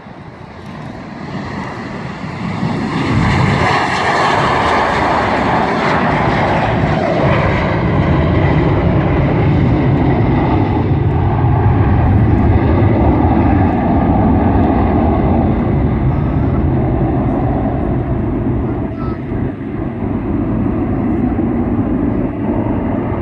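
Boeing 737-200's Pratt & Whitney JT8D low-bypass turbofans at takeoff power. The noise builds over the first three seconds into a loud rumble with a harsh hiss on top, strongest a few seconds in. The hiss then eases while the deep rumble carries on steadily.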